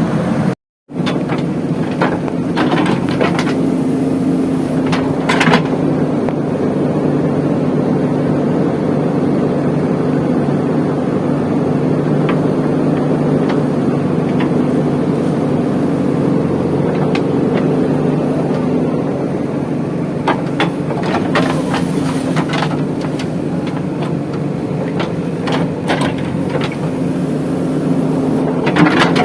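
Diesel engine of a JCB 3DX backhoe loader running steadily, with scattered knocks and clatter from the machine at work. The sound cuts out completely for a moment about half a second in.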